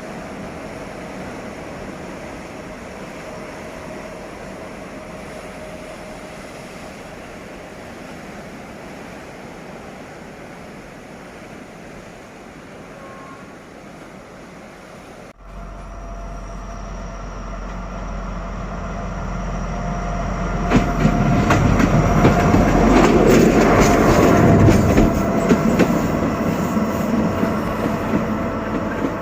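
D11H diesel locomotives running light: steady engine and running noise at first, then, after an abrupt cut about fifteen seconds in, a locomotive's low engine rumble builds as it draws near and passes. It is loudest over the last third, with sharp wheel clicks over the rail joints, and eases off near the end.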